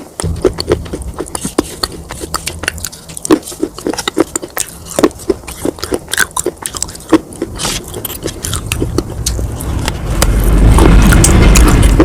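Close-up crunching and chewing of brittle baked clay pot pieces: many sharp, irregular crunches over a steady low hum. A loud low rumble swells in the last two seconds.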